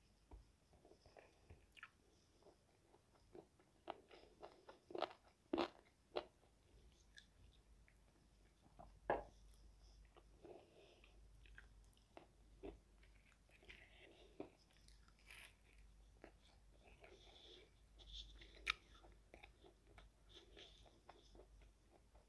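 A person chewing and biting fried chicken wings, with scattered sharp crunches of the crisp coating over soft, wet chewing; the loudest crunches come between about four and six seconds in and again at about nine seconds.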